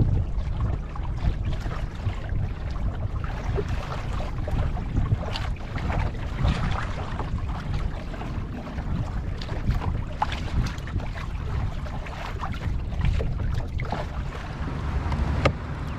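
Wind rumbling on the microphone, with water lapping and splashing against a kayak's hull as it moves over the sea. A single sharp click comes near the end.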